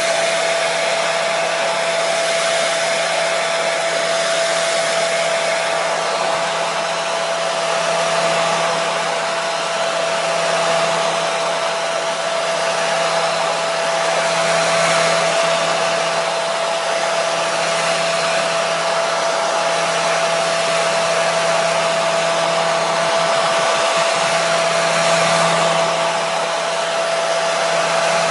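Hair dryer running steadily: an even rushing hiss of air with a steady motor hum underneath, the level swelling and easing slightly every few seconds.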